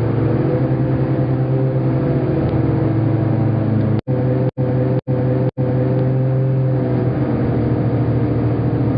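Hovercraft engine and lift fan running with a steady drone, cutting out for an instant four times between about four and five and a half seconds in.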